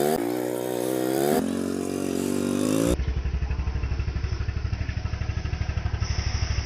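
Motorcycle engine revving, its pitch climbing twice over the first three seconds. About three seconds in, the sound cuts abruptly to a low, evenly pulsing engine note at low revs.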